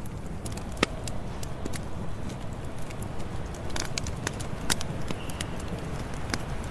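Campfire burning: a steady low rush of flames with irregular sharp pops and snaps of burning wood, a few louder cracks among them.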